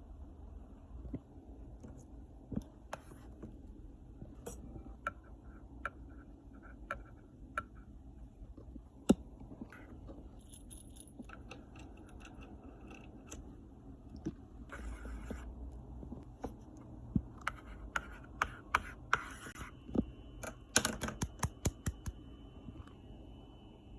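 Scattered small clicks and taps with some light scraping, over a low rumble; a brief rustling burst comes about fifteen seconds in, and a quick run of clicks comes near the end, along with a faint steady high tone.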